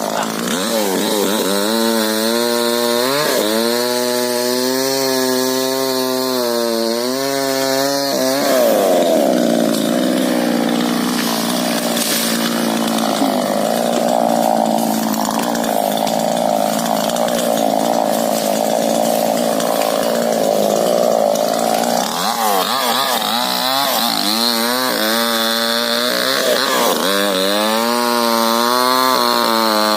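Two-stroke chainsaw running hard and felling a rubber tree. The engine revs up and holds high for the first several seconds. For a long stretch in the middle the note turns rough and blurred as the chain cuts through the wood. Near the end the engine revs climb clearly again.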